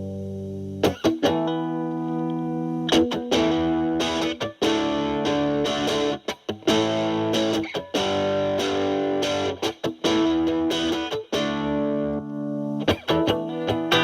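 Electric guitar (Fender Stratocaster) through a Boss DS-2 Turbo Distortion pedal, turbo mode off and distortion knob at nine o'clock, into a Marshall Valvestate amp's clean channel. A held chord rings out, then from about a second in comes a run of picked chords and single-note phrases with short breaks between them.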